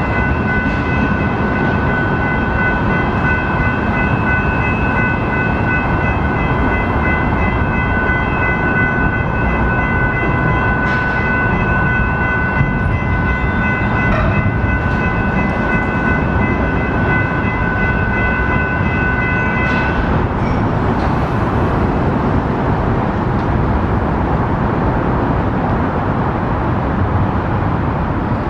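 Union Pacific freight train rolling past with a steady, heavy rumble of wheels and cars on the rails. Over it a steady high ringing tone runs on and then cuts off suddenly about two-thirds of the way through, while the rumble continues.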